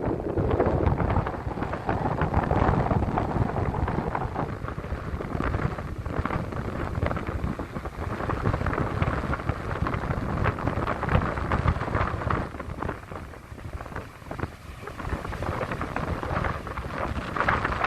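Strong wind buffeting the microphone in gusts, a loud low rumble with a rushing hiss over it, easing for a couple of seconds about thirteen seconds in before picking up again.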